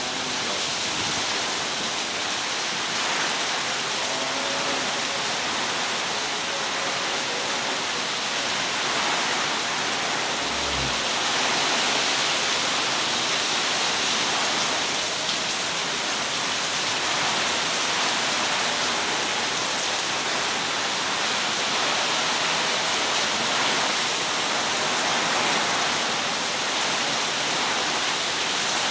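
Heavy rain pouring down steadily, an even hiss that holds its level throughout.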